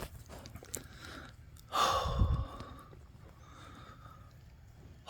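A single loud, breathy breath about two seconds in, lasting under a second.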